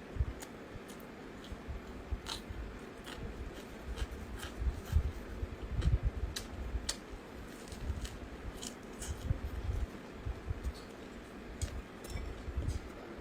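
Close-miked chewing of food, with irregular wet mouth clicks and smacks and soft low thuds of the jaw.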